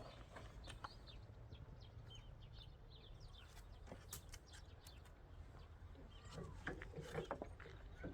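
Faint ambience: scattered short bird chirps, then a few soft knocks about seven seconds in, over a low steady hum.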